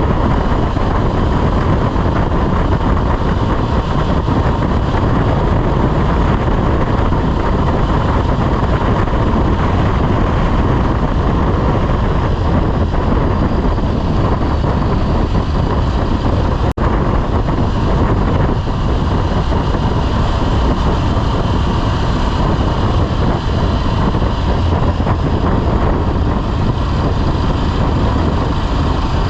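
Motorcycle on the move at steady speed: the engine running under a constant rush of wind over the microphone, with a momentary dropout about two-thirds of the way through.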